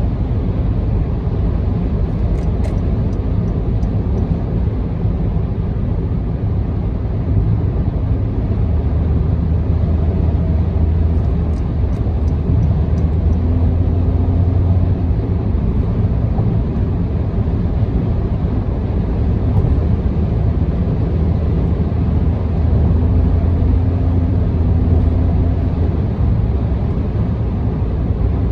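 A car driving at expressway speed: steady tyre and road noise with an engine drone, the low hum swelling twice.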